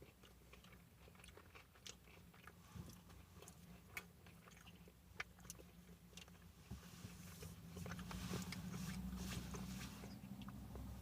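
Close-up chewing and crunching of breaded chicken fries, with scattered small clicks. A low steady hum comes in about seven seconds in.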